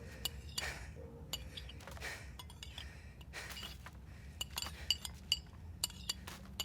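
Faint, scattered clinks of tableware, sharp and ringing briefly, with a quicker cluster of louder clinks in the second half.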